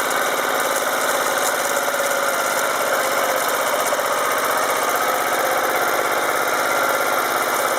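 Motor Sich walk-behind tractor's engine running steadily in third gear.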